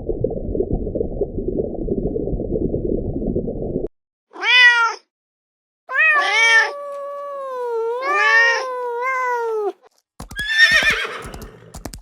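A low rumbling noise stops abruptly about four seconds in. A domestic cat then meows several times, one short meow and then a longer run of drawn-out meows. Near the end come sharp hoof clicks and the start of a horse's whinny.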